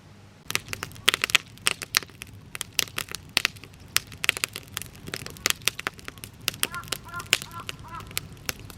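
Campfire of scrap lumber crackling and popping: many sharp, irregular cracks, with a few short squeaky chirps about seven seconds in.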